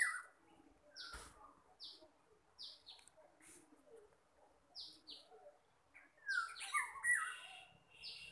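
Small birds chirping: short, high, falling chirps at irregular intervals, with a busier flurry of lower calls about six to seven seconds in.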